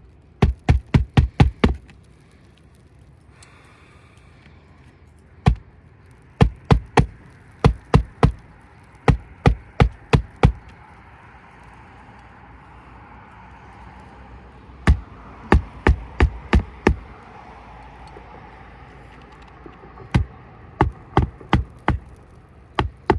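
Hammer driving roofing nails to fasten a shingle back into place: runs of quick, sharp blows, several a second, with short pauses between runs.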